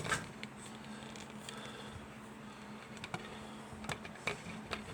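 Things being moved by hand on a cluttered workbench: several light knocks and clicks a second or so apart, over a steady low hum.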